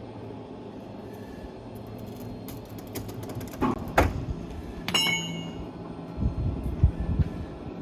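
Sawmill machinery running with a low rumble, with a run of clicks, then sharp knocks, the loudest about four seconds in, and a metal clank that rings briefly, followed by a few dull thumps.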